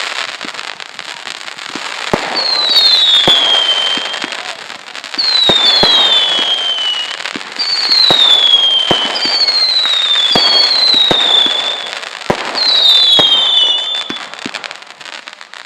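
Fireworks display: a run of whistling fireworks, about six high whistles that each slide down in pitch, often two together, over a steady crackle and sharp bangs.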